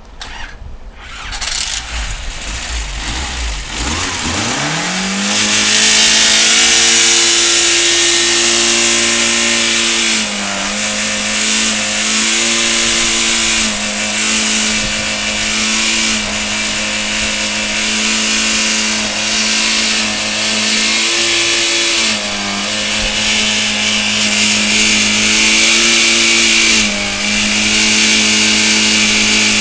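A cold Škoda engine, run with no coolant and minimal oil after two years standing, starts rough and is revved up within about five seconds to very high, steady revs. It is held there with a few brief dips, while a loud mechanical clatter rides over it: the engine is being run deliberately to destruction.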